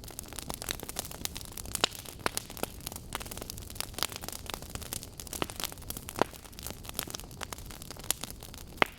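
Burning logs crackling: a rapid, irregular run of sharp pops and snaps over a low steady hiss, with a few louder pops standing out, about two seconds in, about six seconds in, and just before the end.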